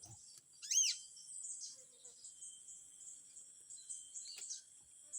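Small birds chirping: one loud arching chirp about a second in, then a run of thin, high, quick chirps, over a steady high insect drone.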